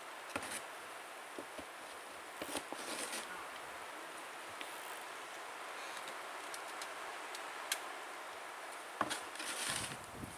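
Snow shovel scraping and pushing through deep snow, a steady rasping hiss with a few sharper knocks and scrapes.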